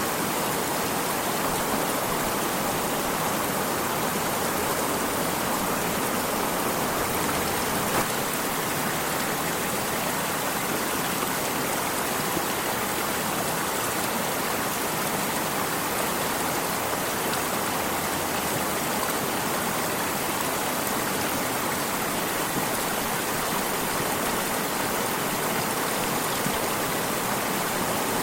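Stream of running water flowing steadily, an even rushing sound.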